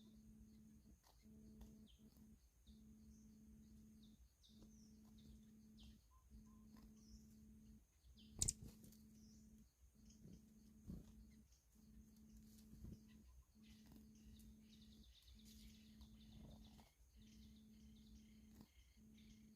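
Faint bird chirps over a steady low hum, with one sharp click about eight and a half seconds in.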